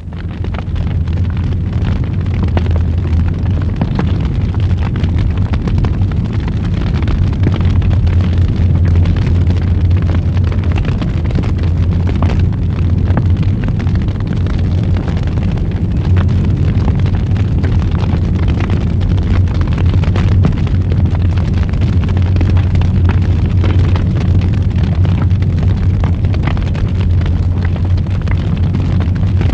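Wood fire burning in a fireplace: a steady low rumble of flames with many small crackles and pops throughout, starting abruptly out of silence.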